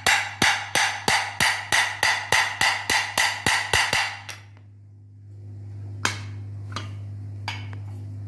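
Light hammer taps, about three a second, seating a new ball bearing in a ceiling fan, each tap ringing briefly like struck metal; the run stops about four seconds in, followed by three scattered single taps. A steady low hum sits underneath.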